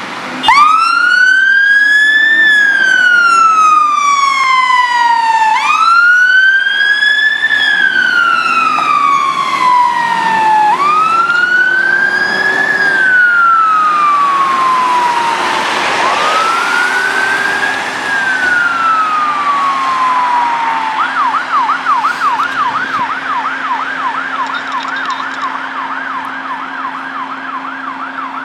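Volvo FL-290 fire engine's electronic siren starting up, sounding four long wails that each rise quickly and fall slowly, then switching to a fast yelp of about three sweeps a second. The siren slowly fades as the appliance pulls away.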